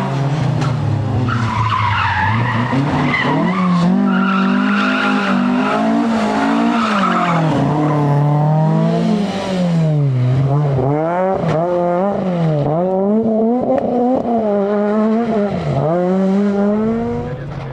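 Rally car engine at high revs, its pitch climbing and dropping repeatedly through gear changes and throttle lifts, with several quick dips in the second half. Tyre and skidding noise runs underneath, strongest in the first few seconds.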